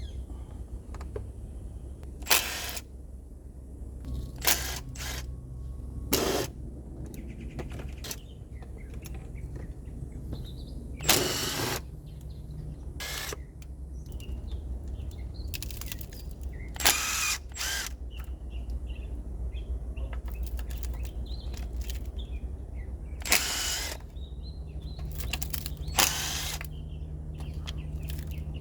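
Hand tools and engine parts giving scattered sharp clicks and knocks, one every few seconds, a few ringing briefly, over a steady low hum with faint bird chirps.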